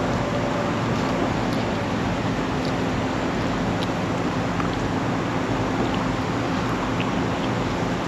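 Inside the cab of a 1966 Ford F-250 at steady speed: a constant engine drone under loud road and wind noise, with a few faint ticks.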